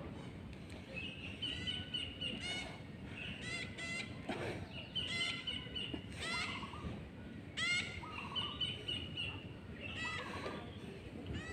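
Birds calling: short chirps and trilled phrases repeated every second or two over steady outdoor background noise.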